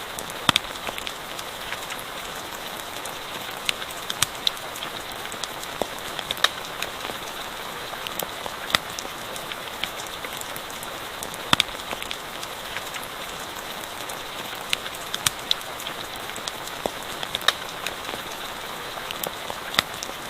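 Steady rain falling, with irregular sharp pops and crackles from a campfire scattered through it.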